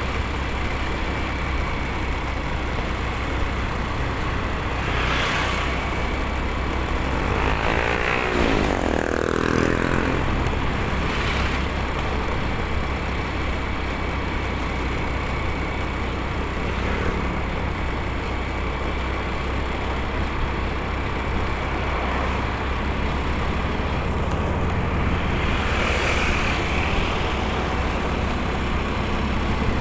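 Motorcycle riding along a road: a steady low engine and road rumble. About eight seconds in, another vehicle passes, its pitch falling as it goes by, and a few more brief swells of traffic pass later on.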